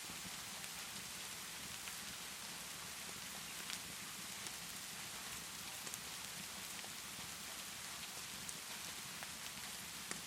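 Steady rainfall with a few sharp crackles from a wood fire scattered through it, a handful of distinct pops in all.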